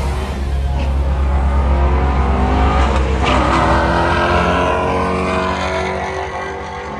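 Race car engine at high revs, passing by: it builds to its loudest about three seconds in, then fades as it moves away.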